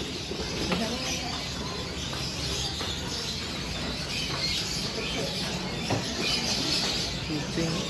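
Many caged songbirds chirping and twittering together in a dense, continuous chatter, with faint voices underneath.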